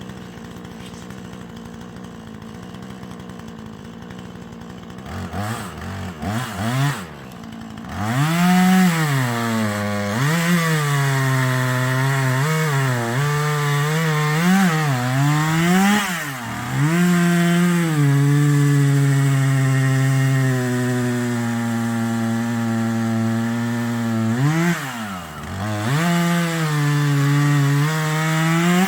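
Husqvarna 440e two-stroke chainsaw idling for about five seconds and given a few quick blips of throttle. From about eight seconds in it runs at full throttle, its pitch dipping and recovering again and again as it is worked through wood, then it drops back and revs once more near the end.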